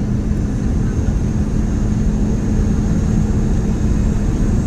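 Steady cabin noise inside a Boeing 717 airliner in flight: a low rumble of airflow and its rear-mounted Rolls-Royce BR715 jet engines, with a steady hum running through it.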